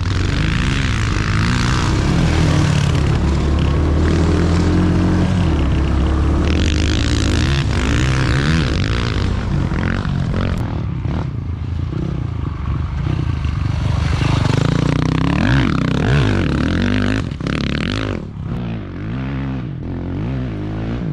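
Dirt bike engine running hard as it is ridden, its pitch rising and falling over and over with throttle and gear changes, over a steady rushing noise.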